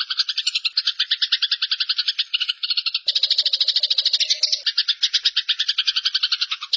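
Eurasian tree sparrow giving its harsh, rapid fighting chatter ('nyerecet'), a continuous buzzy rattle of about a dozen pulses a second that starts abruptly after a silent pause.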